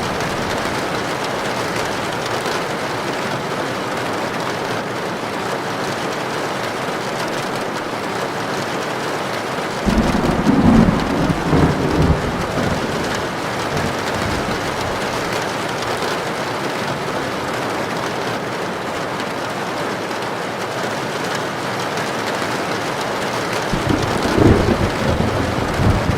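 Heavy rain drumming on a tin roof as a steady hiss, with thunder rumbling in twice: a roll that starts suddenly about ten seconds in and lasts a few seconds, and a shorter one near the end.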